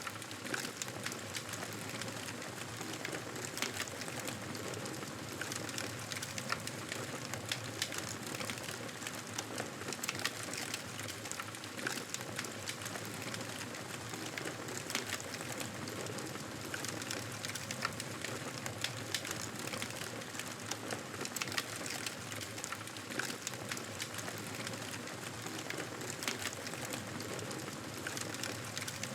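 Campfire burning, a steady hiss dotted with many small irregular crackles and pops.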